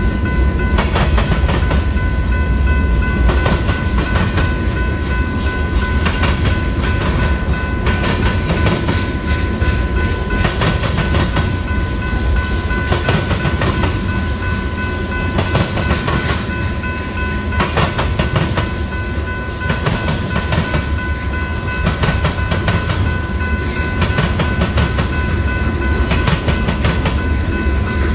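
Freight cars of a Union Pacific train rolling past close by, with a steady heavy rumble and the wheels clacking irregularly as they pound over the rail joints and the diamond crossing.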